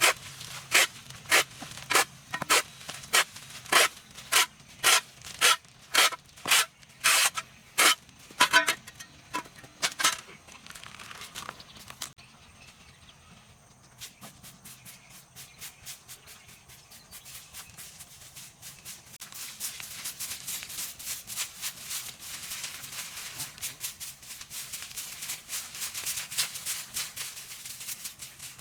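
Rhythmic scraping strokes, about two a second, that fade out about ten seconds in. Faster, lighter strokes start about fourteen seconds in and build up, with a steady low hum underneath.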